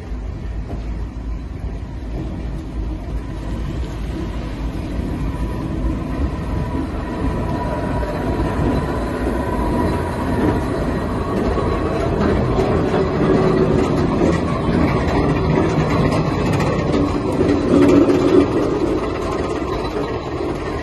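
Two British Rail Class 03 diesel shunters hauling a heavy train, with engine rumble and rolling rail noise growing steadily louder as the train draws near, loudest a few seconds before the end.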